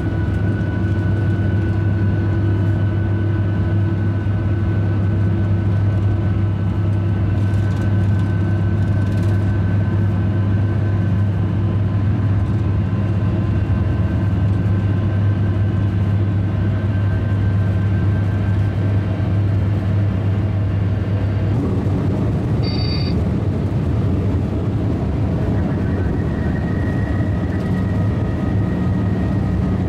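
High-speed train running: a steady low rumble with faint whining tones over it. A short high beep sounds about 23 seconds in, and a new higher whine joins a few seconds later.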